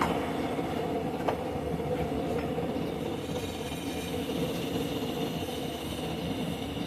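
Forge running with a steady rushing noise, and a couple of faint light taps.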